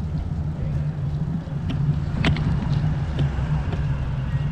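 Low, steady rumble of wind and road noise on a microphone carried on a moving bicycle, with a few short clicks and rattles, the sharpest about two seconds in.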